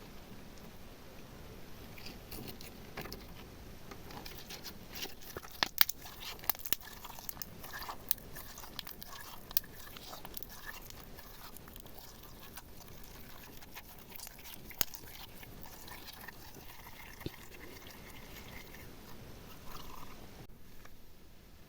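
Slime being worked by hand: a sticky crackling with scattered sharp pops and clicks, loudest in a cluster about six seconds in.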